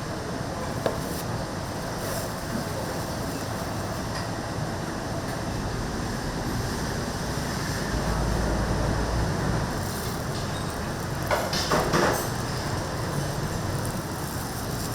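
Steady street noise with traffic running throughout. A brief louder clatter comes about eleven seconds in.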